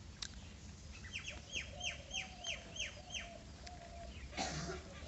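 A bird calling: a quick run of about seven falling high notes, evenly spaced, over about two seconds. About four seconds in comes one short, louder noise.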